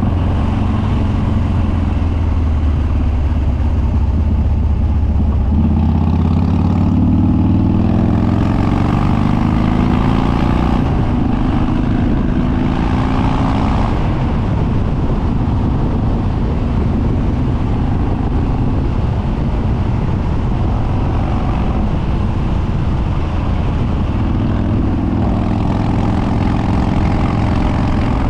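2013 Harley-Davidson Dyna Street Bob's Twin Cam V-twin, fitted with Andrews 48H cams, running loud through open upswept dual exhaust with no baffles. It rises in pitch several times as it accelerates, with steadier cruising in between.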